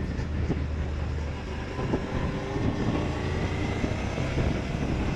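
Motorcycle engine running under way, with a steady low hum and wind and road noise on the rider's microphone. A faint rising whine comes in about halfway through.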